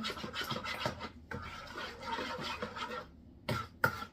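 Spoon stirring yeast into warm water in a bowl: a quick run of light repeated swishes and clicks that stops about three seconds in, followed by a few sharper clicks near the end.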